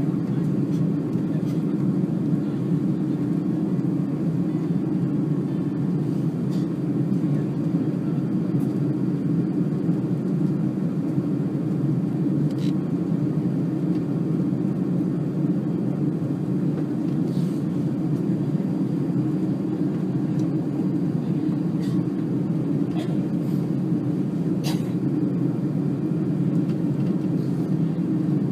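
Jet airliner engines running at low power, a steady, unchanging low rumble with no rise in pitch.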